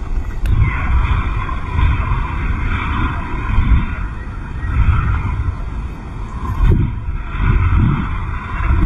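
Heavy storm surf breaking on a beach under strong wind, with gusts buffeting the microphone in an uneven low rumble.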